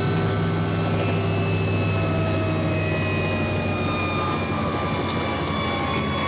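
Helicopter turbine and rotor running with a loud, steady whine made of several tones that slowly fall in pitch, over a low hum.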